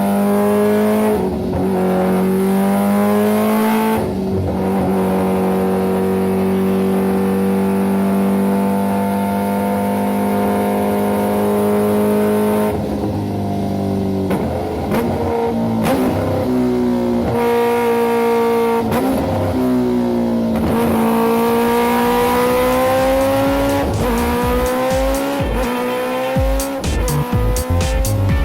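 Engine of a motorcycle running at high revs, its pitch holding steady for long stretches, then dipping and climbing again several times.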